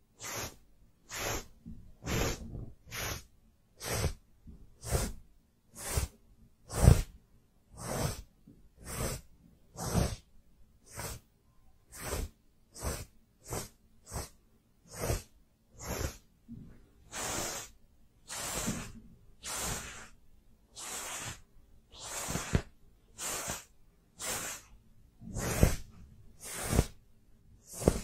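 Brush strokes, one short swish about every second, repeated evenly throughout.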